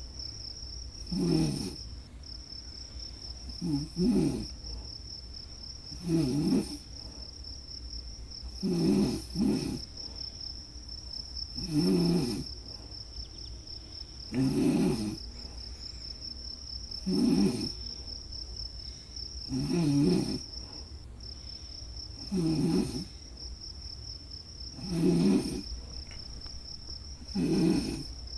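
A person snoring in a slow, even rhythm, one snore about every two and a half seconds, over crickets trilling continuously at a high pitch.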